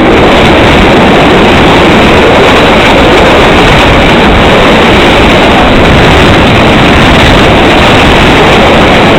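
A moving passenger train's loud, steady running noise, heard from an open carriage window with the microphone out in the passing air.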